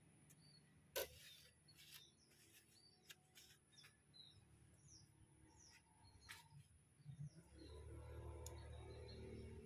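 Near silence with faint bird chirps and a few light clicks. About three quarters of the way in, a low engine drone comes in and grows louder.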